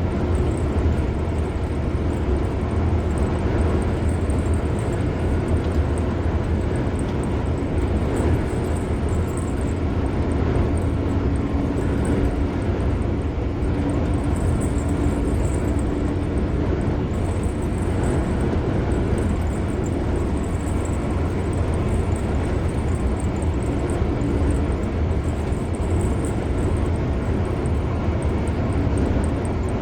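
A car driving at steady road speed: continuous tyre and road noise with a low rumble, and a faint engine drone that comes and goes.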